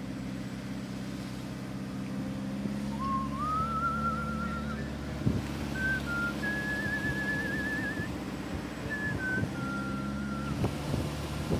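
A person whistling a slow tune in long, wavering held notes, starting about three seconds in, over the steady drone of a truck's engine running.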